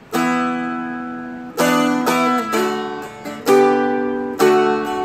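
Seagull Merlin M4, a four-string dulcimer-style instrument, strummed in chords. It starts on a D add 2 chord and moves through a chord change. There are about six strums, each left to ring and fade.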